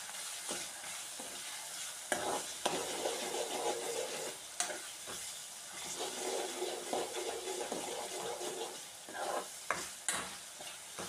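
Chopped onions and tomatoes sizzling in hot oil in a metal kadai while a spoon stirs and scrapes through them, with a few sharp clicks of the spoon against the pan. The onion-tomato base is frying down until soft.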